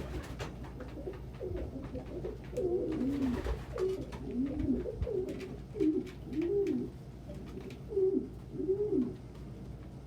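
Domestic pigeons cooing: a string of short coos, each rising then falling in pitch, one after another through most of the stretch.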